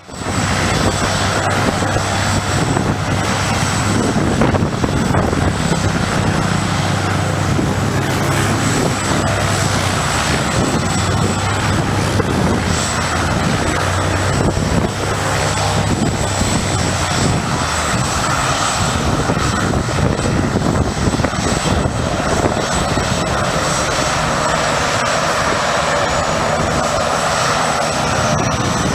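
Propeller airplane's engine running steadily and loudly, with a thin steady high whine over it. A low hum in the engine sound fades out about two-thirds of the way through.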